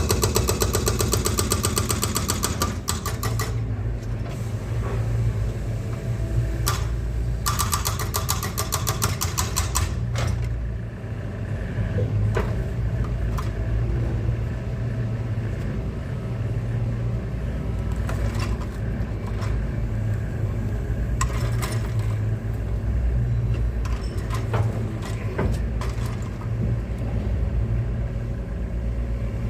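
Excavator's diesel engine running steadily, with two spells of rapid clattering: one in the first three seconds and another about eight seconds in.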